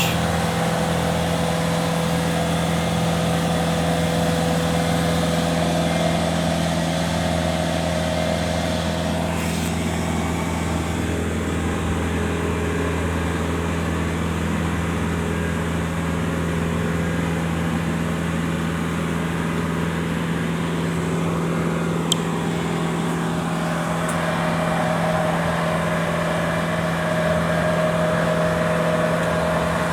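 Aerial lift's engine running steadily with a constant low hum while the lift raises its platform. One brief click about two thirds of the way through.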